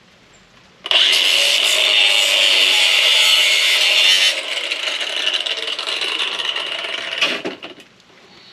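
Small angle grinder cutting into the metal of a scrapped microwave to free its copper. It starts abruptly about a second in, gets quieter a little after four seconds, and stops after about seven seconds.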